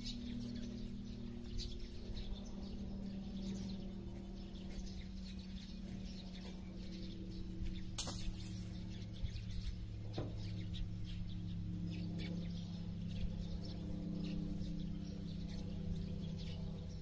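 Small birds chirping in short, scattered calls over a steady low hum, with one sharp click about eight seconds in and a fainter one about two seconds later.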